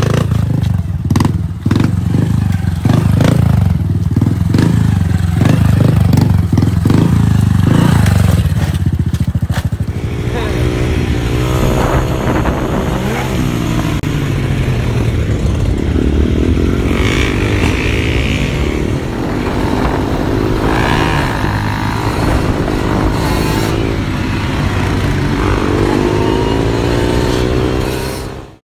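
Motorcycle engines revving: first a dirt bike's engine run hard through a wheelie, then, about ten seconds in, a sportbike's engine revved up and down again and again, its pitch rising and falling.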